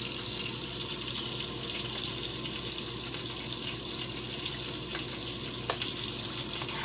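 Steady sizzling of sausage patties frying in a pan on a hot stove, with two light clicks about five seconds in.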